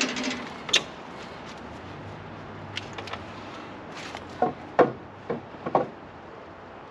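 A handful of hard wooden knocks and clunks from a birch stump being shifted onto 2x4 boards on a sawmill: one knock about a second in, then four more close together in the second half.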